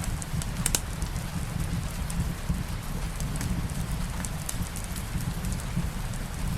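Steady light rain mixed with a crackling wood fire: scattered sharp pops and clicks over an even rain hiss and a low rumble, with one louder crack a little under a second in.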